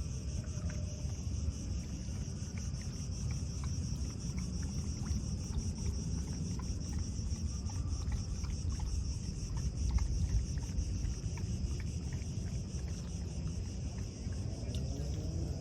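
Insects trilling: a steady, finely pulsing high chorus over a constant low rumble.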